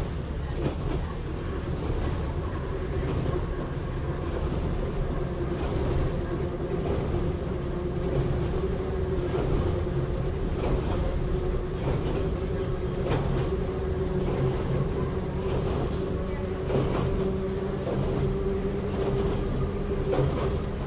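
Running sound inside the Kambara Railway's Moha 31 electric railcar under way between stations: a steady rumble and hum from the running gear, with short clicks and knocks from the wheels at uneven spacing.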